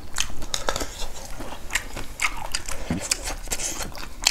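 Close-up eating sounds of people chewing pork curry: irregular wet clicks and mouth smacks, several a second.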